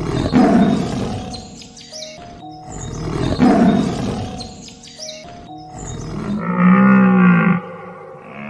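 An animal roaring twice, each rough roar swelling and fading over about two seconds. About six seconds in comes a longer pitched animal call, with light music underneath.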